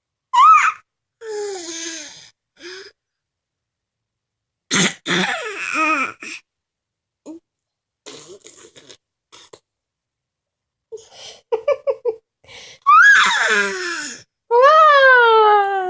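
Baby making loud vocal noises: high-pitched squeals, raspy breathy shrieks and short babbling sounds, in separate bursts with pauses between them, ending in a long squeal that falls in pitch.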